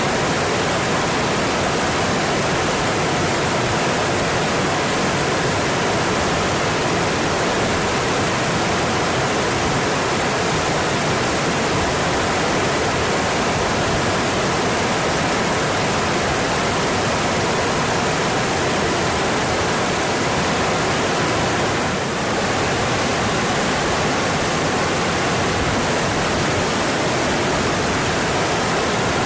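Mountain stream rushing steadily over rocks, a continuous even rush of water, briefly a little softer about three-quarters of the way through.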